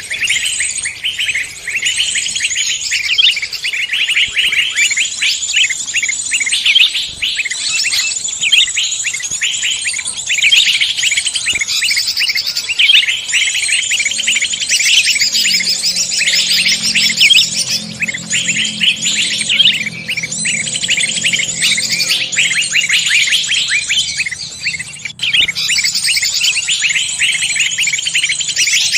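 Dense mixed chorus of many songbirds chirping and trilling at once, rapid high notes overlapping without a pause.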